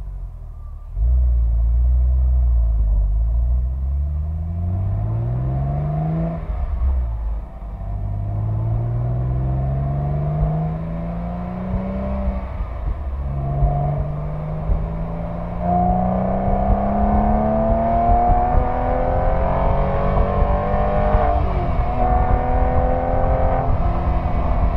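Porsche 911 997 flat-six engine heard at the tailpipe through its sport exhaust, accelerating up through the gears of the six-speed manual. The pitch climbs steadily in each gear and drops at each upshift, about six, twelve and twenty-one seconds in, then holds roughly steady near the end.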